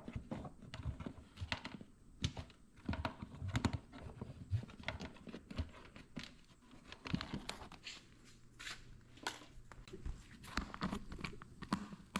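Hands rummaging through loose spare parts and odds and ends from a snowmobile's storage compartment: irregular small clicks, knocks and handling noises, one after another.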